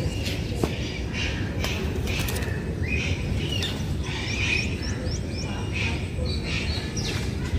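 Small birds chirping and twittering, with a quick run of short rising notes about four to five seconds in, over a steady low rumble.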